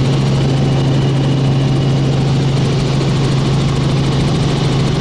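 Helicopter in flight heard from inside the cabin: the engine and rotors make a steady, loud drone with a strong low hum that does not change.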